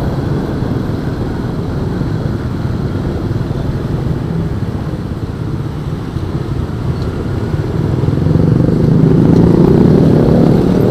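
Honda Astrea Star motorcycle's small four-stroke single-cylinder engine running as the bike rides along, with a steady low rumble of road and wind noise. It grows louder about eight seconds in.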